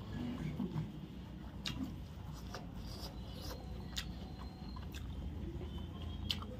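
Close-up eating sounds: chewing a mouthful of chicken biryani, with soft wet mouth clicks about once a second and fingers squishing rice and pulling chicken from the bone, over a steady low hum.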